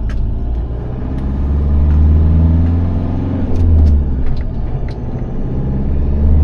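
Motorhome engine and road noise while driving off, heard from inside the cab. The engine note climbs as it accelerates, falls away about three and a half seconds in, then climbs again, with a few light clicks and rattles.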